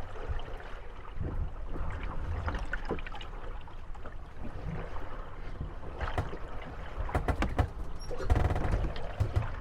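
Moored gondolas rocking on lapping water, their wooden hulls and fittings knocking and creaking against each other. A cluster of sharp knocks comes about six to eight seconds in, followed by a louder grinding creak.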